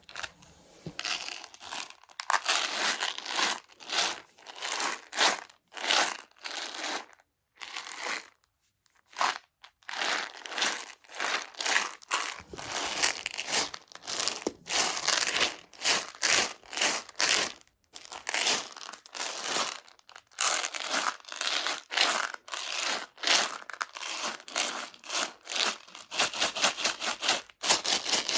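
Many tiny Choco Baby chocolate pellets rattling and sliding inside their plastic container, in repeated bursts with brief pauses between.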